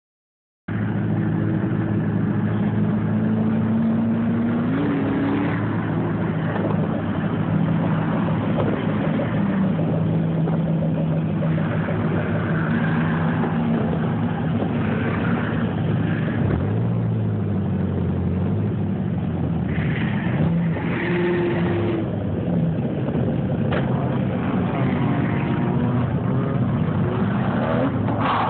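Several drift car engines idling and being revved, several engine tones at once that rise and fall in pitch now and then.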